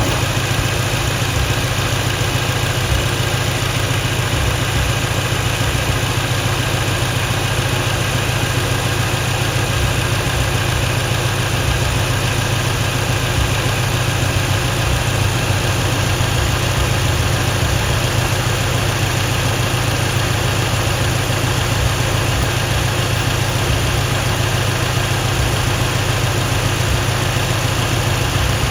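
Mercedes-AMG GT C's 4.0-litre twin-turbo V8 idling steadily, with no revving.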